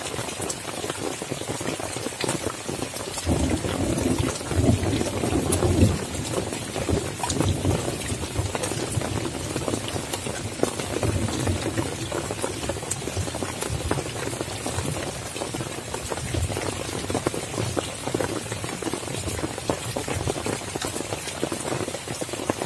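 Heavy rain pattering on a tent, a dense steady patter of drops, with a louder, deeper rush about three to six seconds in.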